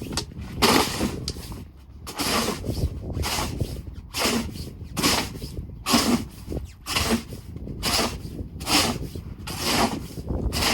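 Snow shovel scraping and scooping snow, a rough rasping stroke repeated about once a second.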